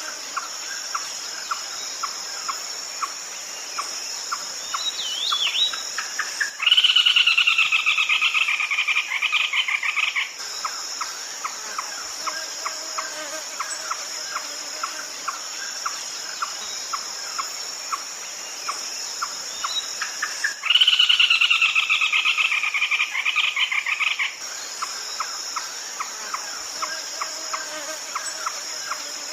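Red-legged crake calling twice: each call is a loud, fast run of repeated notes lasting about four seconds, falling slightly in pitch. Between the calls, a steady high insect shrill and faint regular ticks about twice a second.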